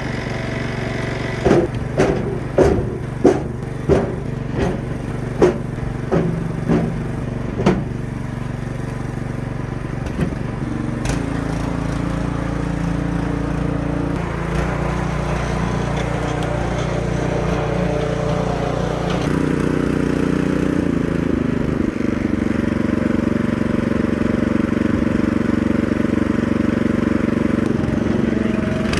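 Small gasoline engine running steadily, its pitch changing a couple of times. In the first eight seconds it is joined by a run of about ten sharp knocks, a little over half a second apart.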